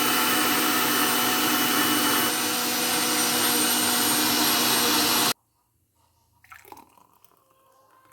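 Electric mixer grinder running steadily at full speed, blending mango and muskmelon into juice. It cuts off suddenly about five seconds in, and only faint sounds follow.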